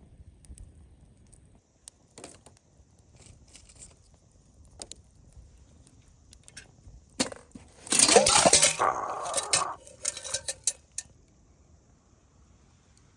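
Metal camp cookware being handled: a few light clinks, then a louder stretch of clattering and rattling about seven seconds in that lasts three or four seconds.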